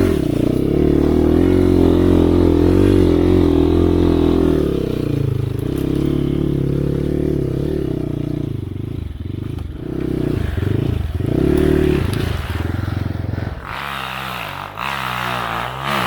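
Enduro dirt bike engine running and revving up and down. A little past halfway it gives several short throttle blips, and near the end a higher engine note comes in before the sound cuts off.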